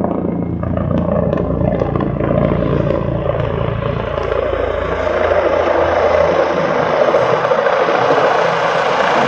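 Air ambulance helicopter's rotor and engine running close by, a steady drone that grows louder over the second half.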